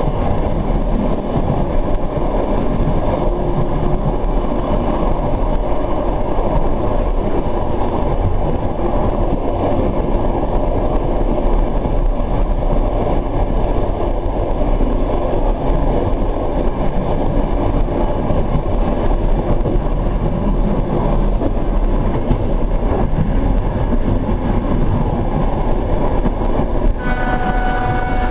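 Suburban train running on the rails, heard from on board: a steady rumble of wheels and carriage. Near the end a steady pitched tone starts, the train's horn.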